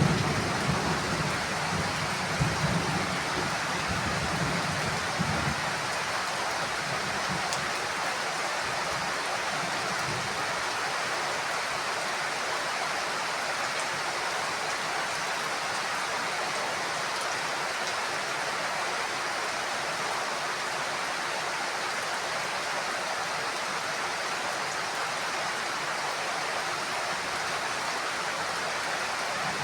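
Heavy rain falling steadily in an even hiss. A low thunder rumble dies away over the first few seconds.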